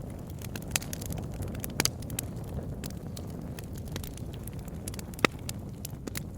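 Campfire burning: a low steady rumble of flames with irregular sharp pops and crackles of burning wood, one louder pop a bit over five seconds in.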